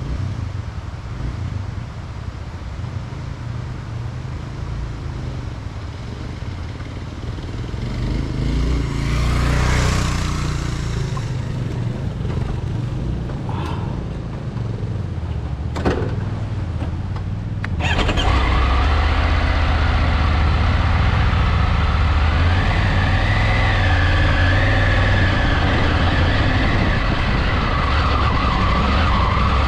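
Off-road motorcycle engine idling with a low rumble. About eighteen seconds in it gets suddenly louder and runs steadily under throttle as the bike rides on a gravel road.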